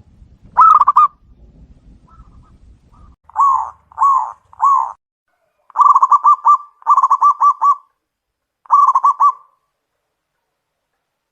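Zebra doves (perkutut) cooing: one short call, then three separate rolling coos, then three quick bursts of rapidly repeated coo notes.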